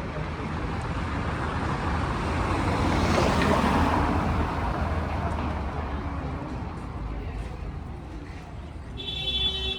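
A motor vehicle passing in traffic: a steady low rumble with a broad road noise that swells to a peak a few seconds in and then fades away. A brief high tone sounds near the end.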